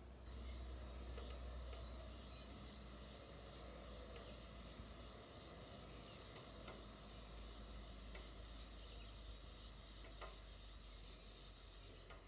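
An insect, such as a cicada or katydid, calling with a high-pitched, evenly pulsing rasp that starts just after the beginning. A single short bird note, rising in pitch, sounds about eleven seconds in.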